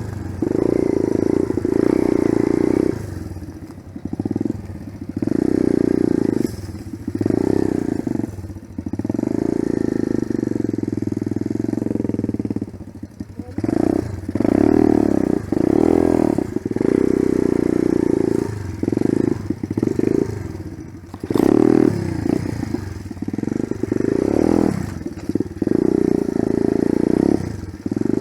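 Small enduro motorcycle engine under way on a dirt trail, the throttle repeatedly opened and closed so the engine note rises and drops again and again, with brief lulls where the throttle is shut.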